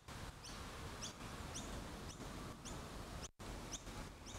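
A small bird chirping repeatedly, short high chirps about twice a second, faint over a low outdoor hiss.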